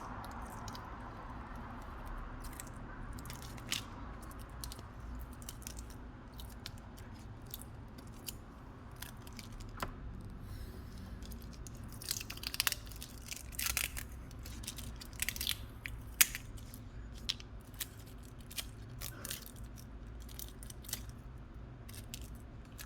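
Scattered small clicks and taps of hand tools and small parts being handled during a phone repair, becoming busier about halfway through, over a low steady hum.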